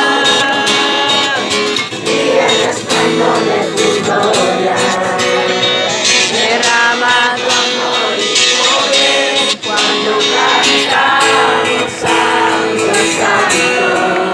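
Singing with acoustic guitar accompaniment.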